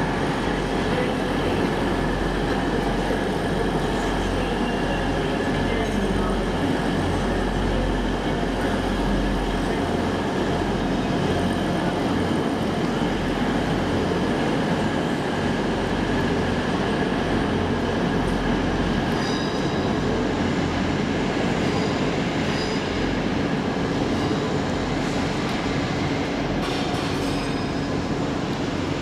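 A train moving in the station, a steady rumble and hum, with faint high wheel squeals now and then in the second half.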